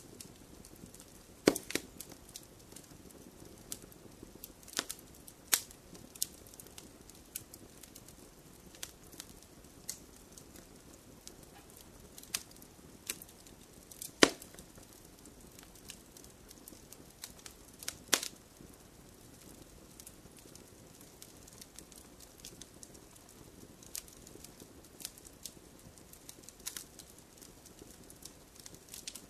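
Wood fire crackling: irregular sharp pops and snaps over a faint, steady hiss of the burning fire, with a few louder pops, the sharpest about a second and a half in and twice more later.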